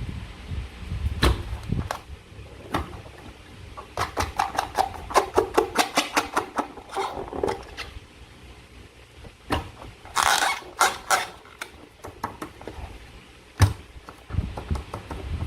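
Slime being handled and squished with a balloon: irregular sticky clicks, with a quick run of them in the middle, a brief squelch, and a single sharp knock near the end.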